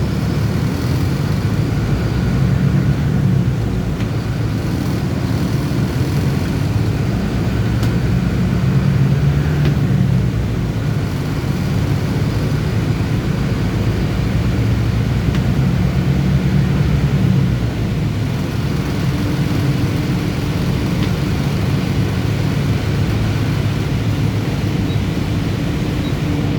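Bus engine running and road noise while driving, the engine note rising and easing off a few times.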